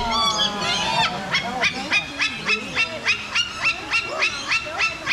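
A bird calling loudly over and over. A few falling notes come first, then a fast, even run of short, sharp, honking calls at about three or four a second.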